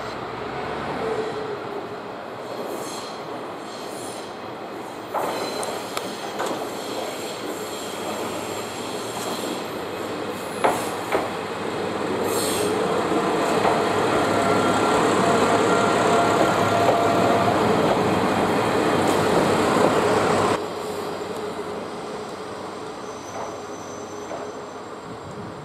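JR Kyushu KiHa 125-400 'Umisachi Yamasachi' diesel railcar rolling slowly into the station: a rumble that grows louder as it passes close, a few sharp clicks of the wheels over rail joints, and a steady wheel squeal that builds in the second half. The sound drops off suddenly about twenty seconds in, leaving a quieter rumble.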